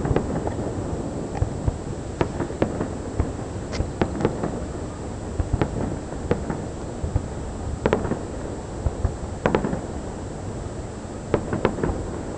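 Fireworks display: a string of sharp cracks and bangs at irregular spacing, some in quick clusters, over a continuous low rumble.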